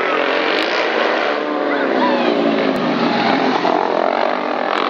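Motorcycle engines running hard, their pitch rising and falling as they rev.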